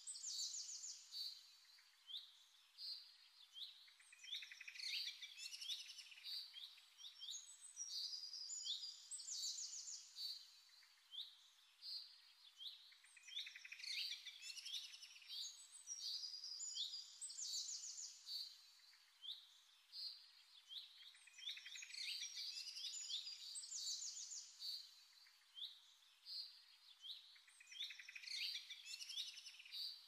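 Small birds chirping and twittering in quick, high-pitched phrases that repeat every few seconds, fairly faint.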